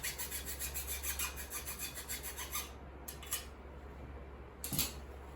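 A file rasping on a metal part in quick, even strokes, about eight a second, for the first two and a half seconds, then a couple of short scrapes and a knock near the end. The metal is being tested to see whether it is brass or zinc.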